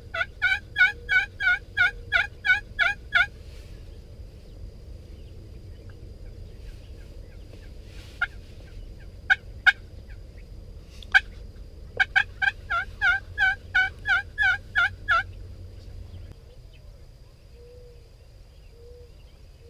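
Two runs of turkey yelps, each about three seconds of evenly spaced notes at three to four a second: one at the start, the other about twelve seconds in. A few sharp single notes fall between the runs.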